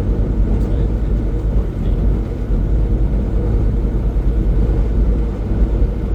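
Semi-truck's diesel engine and tyre noise heard from inside the cab while cruising at highway speed: a steady low rumble.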